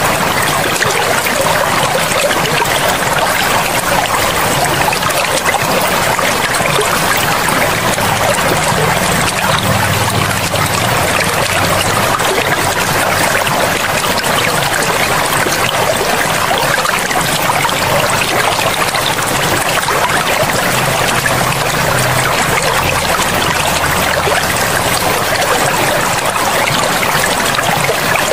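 Steady rushing and trickling of a forest river, an even wash of water noise. Faint low notes come in twice, around ten seconds in and again a little past twenty.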